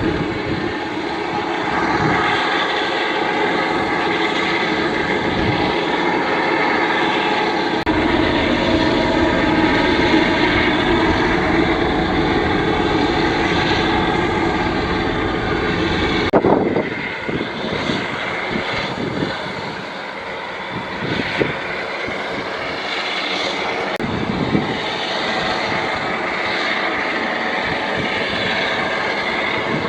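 Boeing 747-400 freighter's jet engines running, a steady whine of layered tones over a broad rush. The sound changes abruptly about a quarter and about halfway through.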